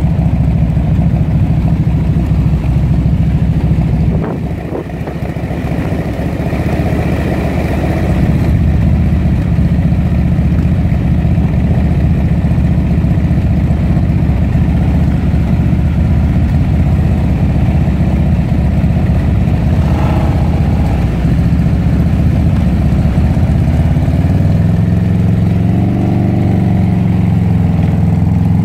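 Harley-Davidson Electra Glide's V-twin engine idling steadily, with other motorcycles running nearby. Near the end an engine revs up and down.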